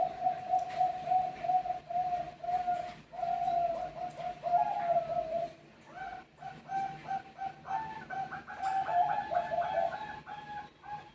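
Zebra doves of the Bangkok perkutut song breed cooing in long runs of short, quick, repeated notes. About six seconds in a second, higher voice joins, and the two call over each other.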